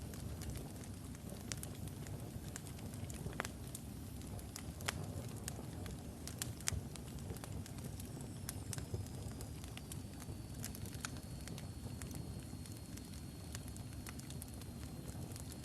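Logs burning in a wood fireplace: irregular sharp crackles and pops over a steady low rumble, with a faint thin high whistle coming in about halfway through.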